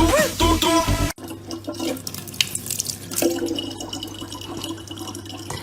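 Dance-pop music for about the first second, cut off abruptly; then water trickling and dripping, as from a tap, over a low steady hum.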